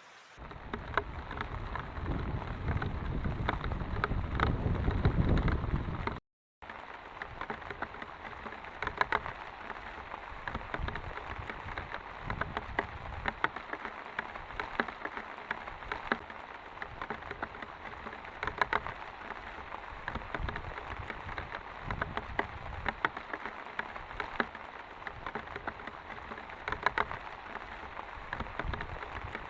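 Heavy rain falling, with many separate drops ticking close by. For the first few seconds a low rumble builds under the rain, then the sound cuts out briefly before steady rain resumes.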